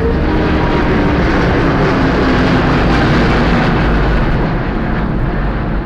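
Airbus A350-1000 airliner's Rolls-Royce Trent XWB jet engines during a slow display pass: a loud, steady rushing jet noise with a faint tone that glides slightly lower partway through.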